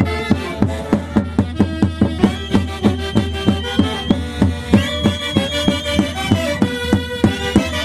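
Andean orchestra playing santiago music: sustained melody instruments over a fast, steady drum beat.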